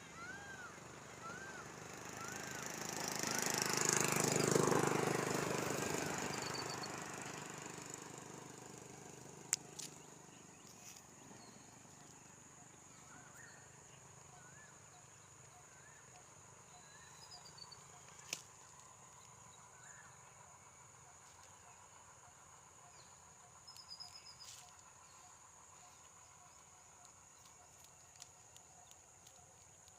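Outdoor ambience: a steady high-pitched insect drone throughout, and a repeated chirping call about one and a half times a second over the first several seconds. A rush of noise swells and fades, loudest about four seconds in, with a few sharp clicks and faint chirps later.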